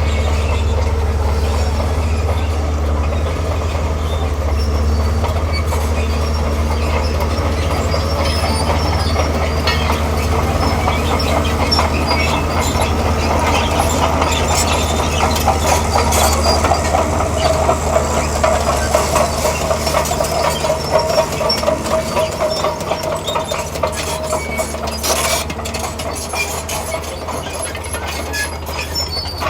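Diesel crawler machine working, its engine droning steadily while its steel tracks clank and squeal; the squeal is strongest in the middle and the sound eases off toward the end.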